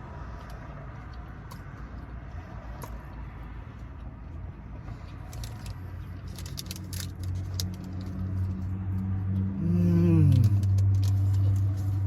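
Eating noises inside a car: chewing of crunchy taco shells and crackling of paper wrapping, as scattered clicks. A low steady engine hum grows louder through the second half, and a short falling tone comes near the end.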